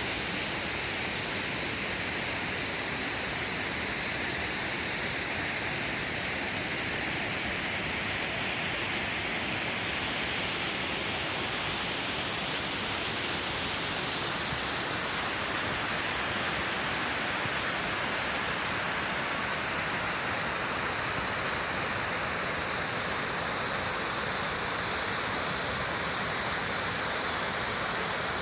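Valley stream water rushing, a steady even noise with no breaks.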